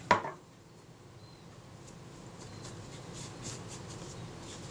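Cotton bud rubbing over a small metal shutter retainer plate as it is cleaned, in faint repeated soft scratchy strokes.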